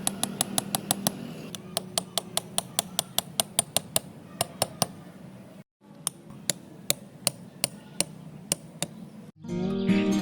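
A rapid, even series of sharp light taps, about five a second, thinning to slower taps after a brief break past the middle, over a low steady hum.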